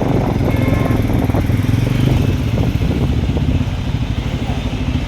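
Motorcycle engine running steadily, heard from on the bike, with a haze of road noise.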